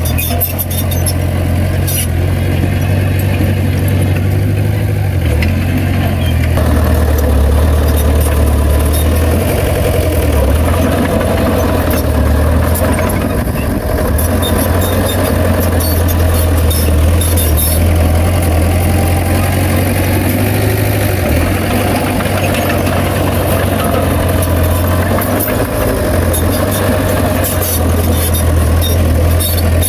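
Heavy diesel engine of earthmoving machinery running steadily, with a deep, continuous low note that shifts a little in pitch now and then.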